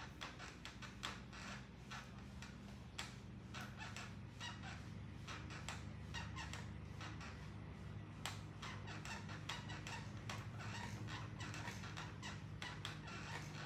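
Stationary exercise bike being pedalled: a steady low hum with rapid, irregular clicking and ticking throughout.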